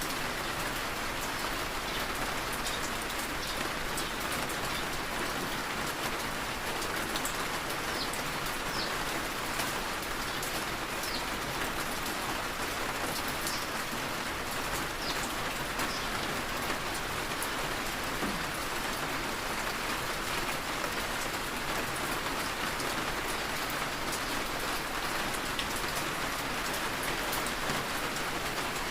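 Heavy rain falling steadily, with scattered sharper drops ticking through the steady hiss.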